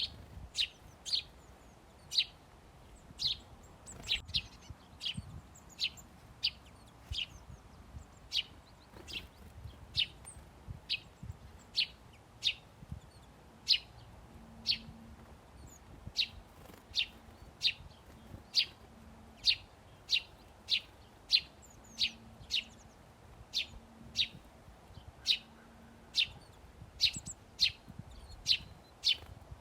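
Birds chirping: short, sharp chirps repeated irregularly, about one or two a second.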